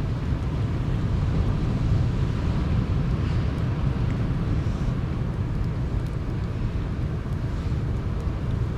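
Sea surf and wind making a steady low rush, with faint crackles from a campfire here and there.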